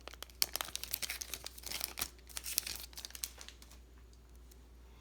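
Trading card pack wrapper crinkling and tearing as it is opened, a dense run of crackles that stops about three and a half seconds in.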